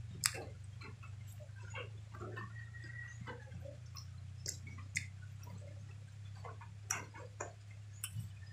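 Mouth sounds of eating: wet chewing and lip smacks, with scattered sharp clicks, over a steady low hum.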